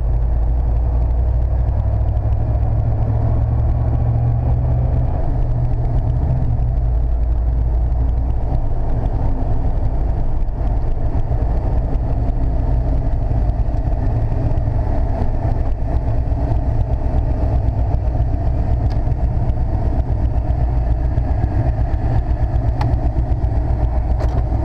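1995 Chevrolet C/K 1500 pickup's engine idling steadily with the air conditioning switched on.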